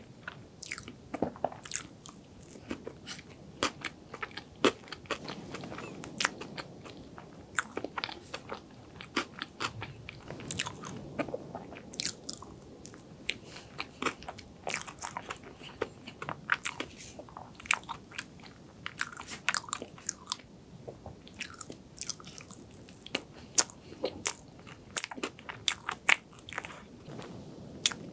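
Close-miked chewing of soft chocolate cake and cream: many irregular sharp, sticky mouth clicks and smacks.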